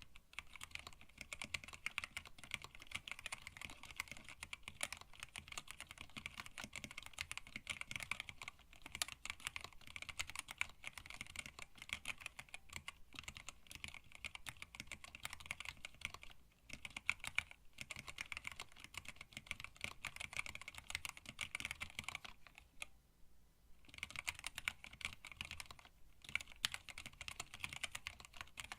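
Continuous fast typing on a hand-wired split mechanical keyboard with Tealios linear switches, blank PBT keycaps and a stacked acrylic case, giving a rapid stream of key clacks. The typing pauses briefly a couple of times past the middle, with a longer stop of about a second and a half near the last third.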